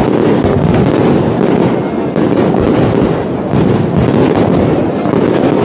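Fireworks display: a dense, continuous barrage of bursts and crackle with no pauses.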